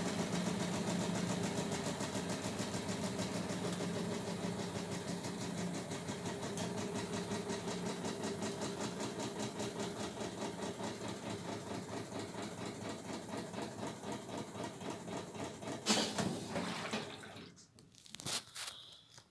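Brastemp 12 kg top-loading washing machine running with a steady motor hum and a fast, even pulsing, slowly getting quieter. A knock comes near the end, then the machine stops and a few clicks follow.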